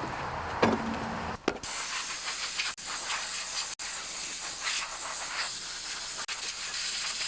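A few metal clanks, then a compressed-air blow gun hissing steadily with a fluctuating rush, blowing grass and dirt out of a lawn tractor's mower deck.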